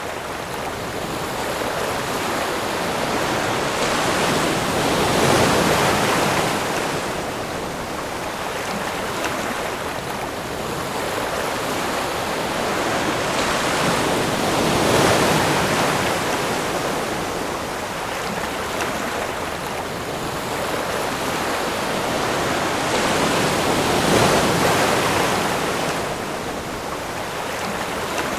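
Ocean surf: waves breaking and washing up the shore in a steady rush, swelling to a louder crash three times, about every nine to ten seconds.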